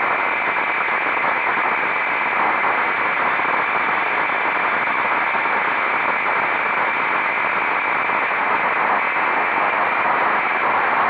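Steady rushing wind noise over the microphone of a motorcycle at riding speed, the engine buried beneath it. Near the end a faint rising engine note comes through.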